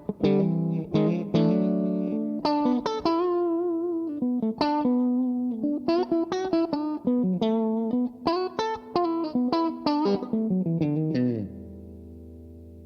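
Electric guitar played through a DemonFX Breaker Drive pedal, giving a driven tone. It plays a lick of picked notes with a wavering vibrato note about three seconds in, then ends on a low note left ringing and fading near the end.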